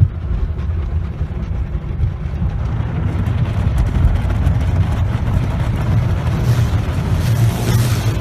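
Automatic tunnel car wash working over the car, heard from inside the cabin: a steady low rumble of spraying and scrubbing against the body. It opens with a thump, and a hiss grows from about three seconds in and gets stronger near the end.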